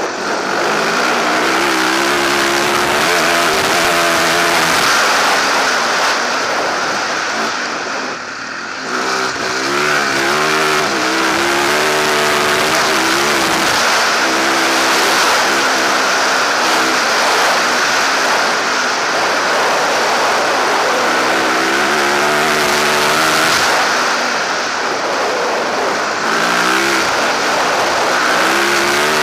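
Rally motorcycle engine under hard acceleration on a gravel forest track, its pitch climbing and dropping as the rider works the throttle and gears, with a brief drop-off about eight seconds in. A steady rush of wind and tyre noise runs underneath.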